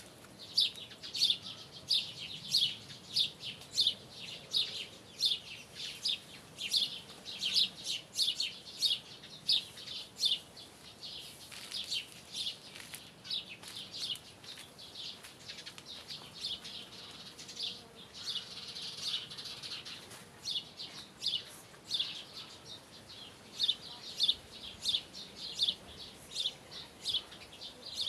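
Small birds chirping: short, high chirps repeated two or three times a second, thickening into a busier run of calls a little past the middle.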